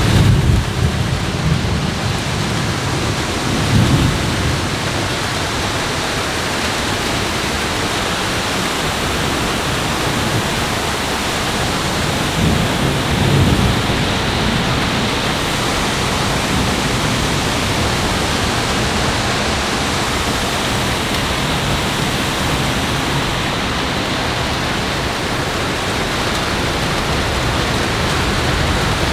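Steady heavy rain with thunder rumbling: low rolls of thunder near the start, about four seconds in, and again around thirteen seconds.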